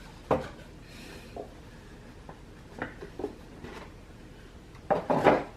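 Gift packaging being handled and opened: scattered soft crinkles and taps, with a louder rustle about five seconds in.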